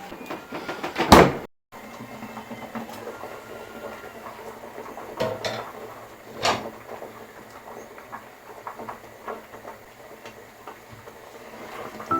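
Household handling sounds: a loud thump about a second in, then a few sharper knocks and light clicks and clatter of objects being moved and set down.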